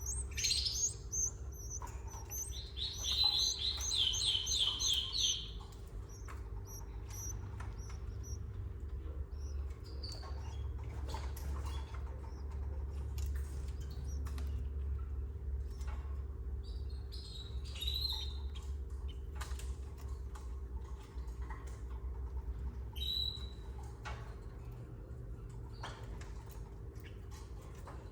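Canaries chirping, with a fast trill of repeated notes about three seconds in and short chirps later, among many small scratching clicks. A steady low hum runs underneath.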